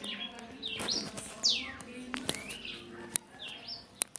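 Birds chirping: a string of short rising and falling chirps, with a loud falling whistle about a second and a half in. A few sharp clicks come near the end.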